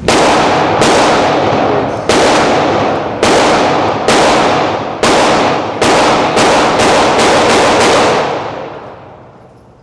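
A rapid string of about a dozen 9mm pistol shots, fired through a forced-reset trigger, the shots coming closer together toward the end. An indoor range echoes each shot, and a long reverberant tail follows the last one.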